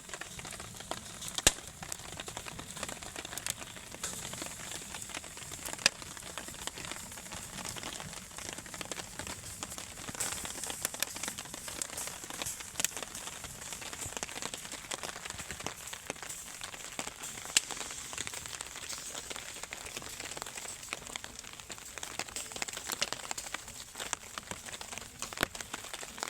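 Campfire crackling steadily, with a scatter of sharp, louder pops every few seconds.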